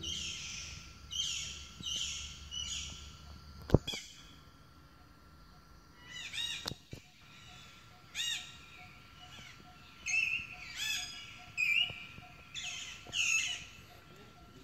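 Birds calling: a run of four quick chirping calls about a second apart, then a string of varied chirps from about six seconds in. A single sharp click near four seconds is the loudest sound.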